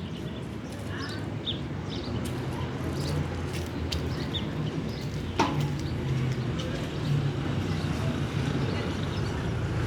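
Birds chirping over a steady low rumble, with scattered light clicks and one sharp knock about five and a half seconds in.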